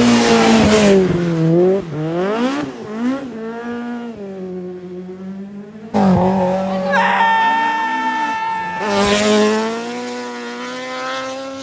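Rally car engine at speed, its pitch dropping and rising with the throttle and gear changes; a cut about six seconds in brings another car at steadier revs.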